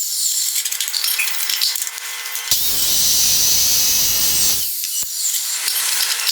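Homemade wood chipper driven by an angle grinder through a chain drive, its planer-blade cutter chipping wood. The sound switches abruptly between a thin, scratchy grinding and a full, dense chipping noise, about two and a half seconds in and again near the end.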